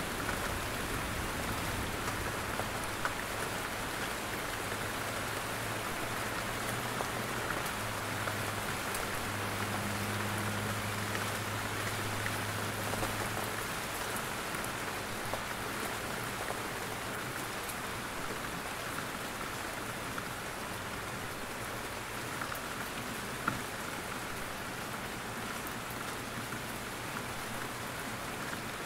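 Steady rain falling in a forest, with scattered drops pattering down from the trees. A low rumble sits under it for the first half and fades out about halfway through.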